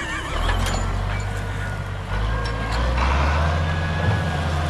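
Tractor engine running under load as it pulls away. Its low rumble grows louder in steps, about a third of a second in, about two seconds in and again near three seconds, as it gets under way.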